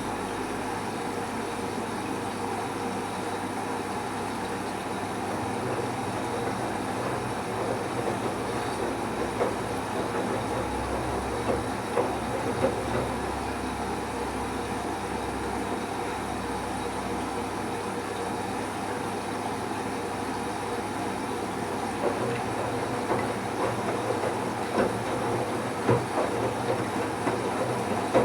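Bauknecht Super Eco 7615 washing machine running with its drum turning a load of wet towels: a steady motor hum under the tumbling, with a low swell partway through and a scatter of short knocks near the end.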